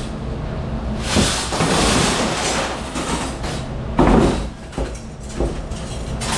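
Commercial dish-room machinery with a steady low hum, and a long sliding, rushing noise about a second in. A sharper knock with a slide follows about four seconds in, like a dish machine door or rack being moved.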